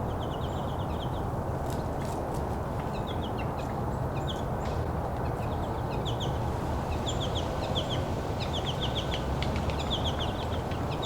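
A flock of American goldfinches calling: loud, rapid runs of short, high down-slurred notes, repeated in clusters throughout, over a steady low background rumble.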